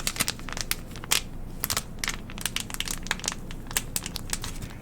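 United Clean Plus sanitizing wipe packet crinkled and squeezed in the fingers: irregular sharp crinkles and crackles, the loudest about a second in.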